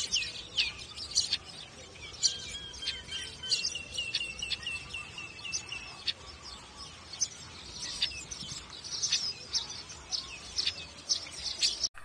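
Many small birds chirping and twittering in quick, high, down-sweeping calls, with one bird repeating a single note about three times a second for a few seconds in the middle. The birdsong cuts off abruptly just before the end.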